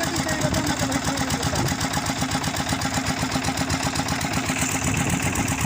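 Engine idling steadily with a fast, even pulsing beat.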